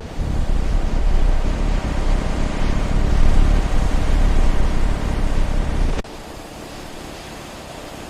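Loud rushing roar with a deep rumble, dropping suddenly to a quieter steady hiss about six seconds in.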